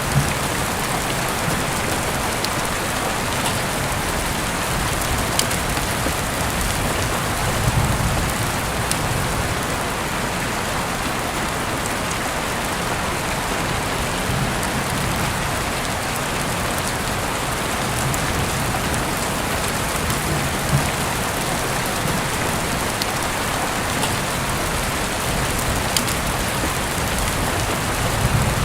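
Heavy rain falling steadily, heard through an open window, with sharp taps of single drops now and then and a soft low rumble that swells and fades.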